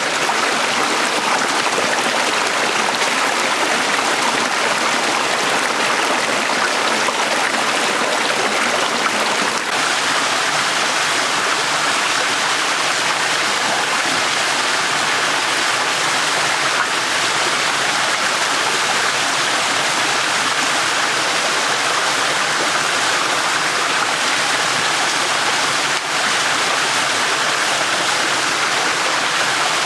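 A small stream running steadily, an even rush of flowing water with no breaks.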